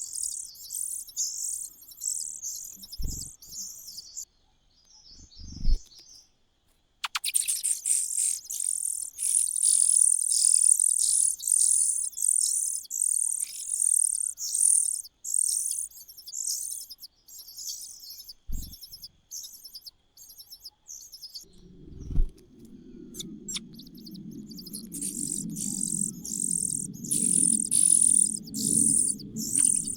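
Nestling birds giving rapid, high-pitched begging chirps in long series, pausing briefly about five seconds in. A few low thuds break in, and from about two-thirds of the way through a low rumbling noise runs beneath the calls.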